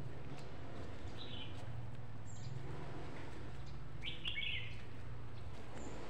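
A few short bird chirps, about a second in and again a little after four seconds, over a low steady rumble.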